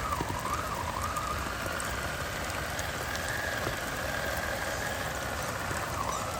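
Electric motor of an RC crawler whining as it is driven, its pitch wavering up and down with the throttle and then holding fairly steady, over a steady hiss of rain.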